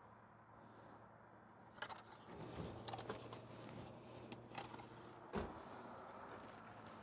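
Faint car engine idling, a low steady hum that comes in about two and a half seconds in, with a few sharp clicks and knocks over it.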